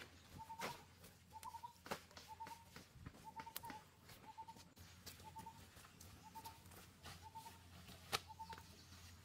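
Faint outdoor quiet with a bird repeating one short, slightly rising note about every two-thirds of a second, and a few sharp knocks among it, the loudest near the end.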